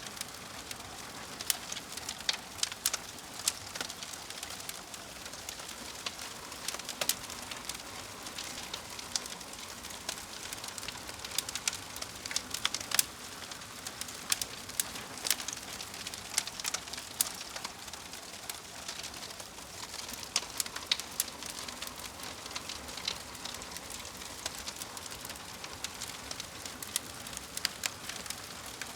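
Wood fire crackling: a steady hiss with irregular sharp pops and snaps from the burning logs.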